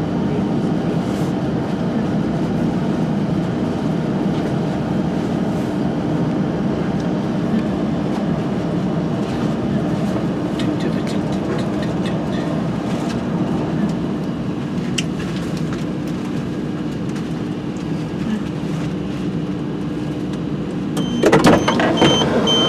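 Diesel passenger train running with a steady engine and road hum. Near the end the sound changes suddenly and a run of short, high electronic beeps sounds, like a train's door-warning tone.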